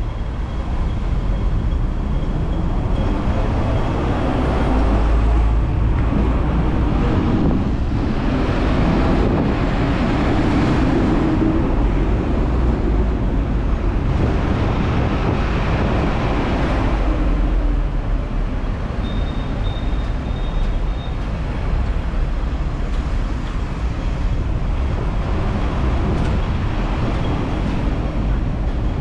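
Hong Kong double-decker electric tram running along its street track: a steady low rumble of motor and steel wheels on rail, swelling twice in the middle, mixed with surrounding road traffic. A brief faint high squeal comes near the two-thirds mark.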